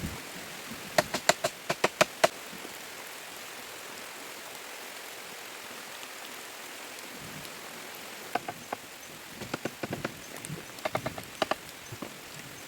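Steady rain-like hiss with sharp knocks: a quick run of about seven knocks about a second in, then scattered, lighter knocks near the end.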